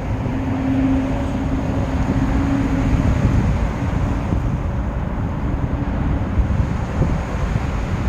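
Wind buffeting the microphone by the sea, with a steady low hum through roughly the first half that fades out about four to six seconds in.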